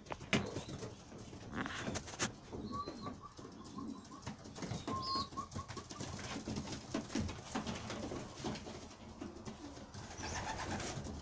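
Pigeons cooing continually in a loft, with a few sharp knocks as a bird is caught and short rapid chirps twice.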